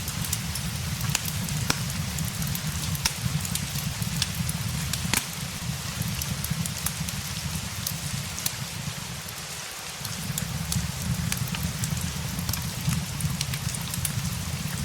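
Rain and a crackling fire mixed together. A steady hiss of rain is dotted with frequent sharp crackles and pops, over a low rumble that fades briefly a little past the middle and then comes back.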